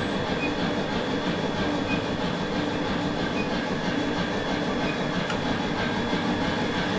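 Induction heater running with a bar in its coil: a steady machine drone with a constant high whine, the bare coil liable to spark against the work.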